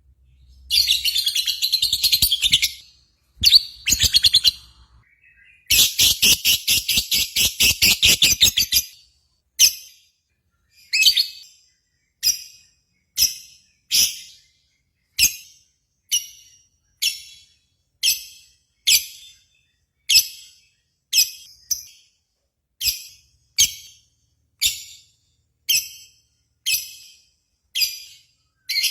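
Lovebird singing: long runs of rapid, high-pitched chattering for the first nine seconds or so, then short sharp chirp bursts repeated about once a second.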